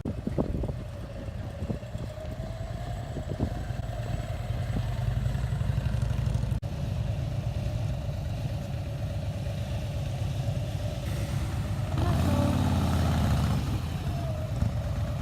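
Motorcycle engine running steadily with a low rumble, getting louder for a stretch near the end.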